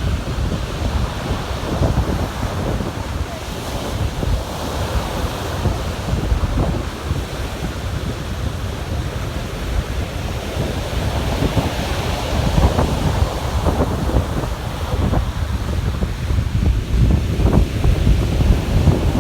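Storm surf breaking and washing on a beach under hurricane-force wind, with heavy wind buffeting on the microphone.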